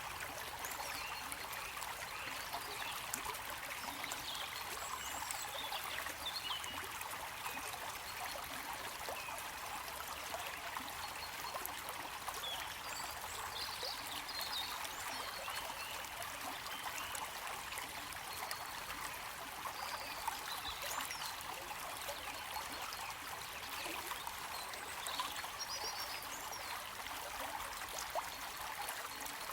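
Flowing water: a stream trickling steadily and evenly.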